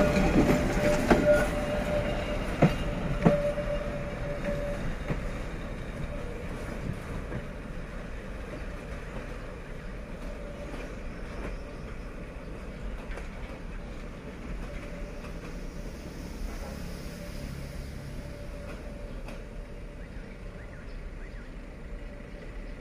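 The last wagons of an empty container train roll past close by and away around a curve. Two sharp knocks from the wheels come in the first few seconds, with a thin, steady wheel squeal. The rumble then fades to a faint, steady sound as the train recedes.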